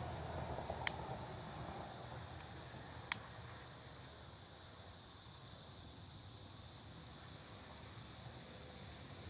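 Crickets chirring in a steady high-pitched drone, with two sharp clicks about one and three seconds in.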